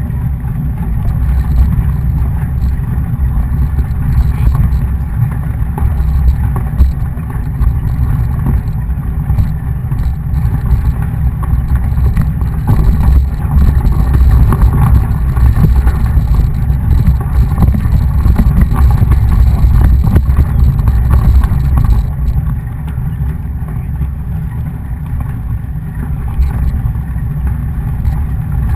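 Steady low rumble of wind buffeting the microphone on a moving mountain bike, easing a little near the end.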